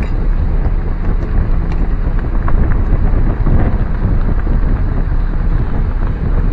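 Wind buffeting the microphone, over the low rumble of a car driving slowly.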